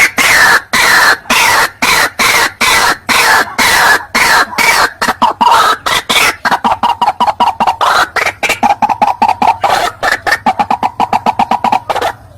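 White-breasted waterhen (ruak-ruak) calling loudly: a rapid series of harsh repeated notes, the early ones falling in pitch, settling into a fast, even pulsing in the second half.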